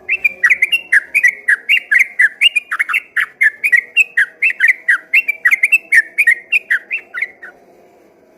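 Yellow-vented bulbul (trucukan) singing a fast, unbroken string of whistled notes, about four or five a second, in the rapid 'ropel' style, stopping about seven and a half seconds in.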